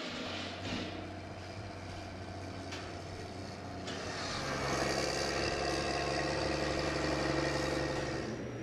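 Engine idling steadily, then running higher and louder from about four seconds in.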